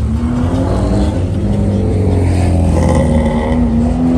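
Loud car engine revving through its exhaust, the pitch climbing, dropping back and climbing again.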